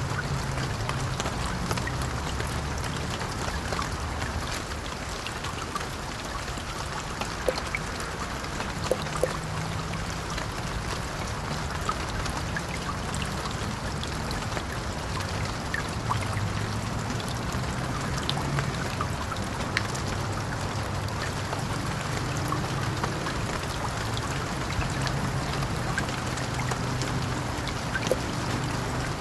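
Vehicle engine droning steadily under a wash of road noise, its pitch shifting a little from time to time, with scattered light clicks and rattles.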